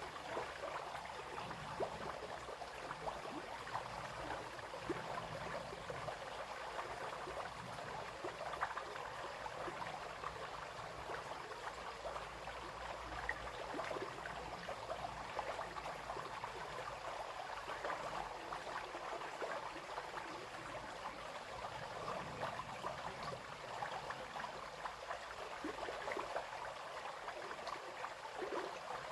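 A brook babbling and splashing steadily over stones, a dense continuous burble with small plinks and splashes throughout.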